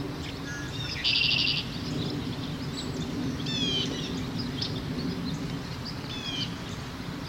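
Red-winged blackbird calling in a field recording. A loud buzzy, rattling trill comes about a second in, with shorter descending notes later, over a steady low background rumble.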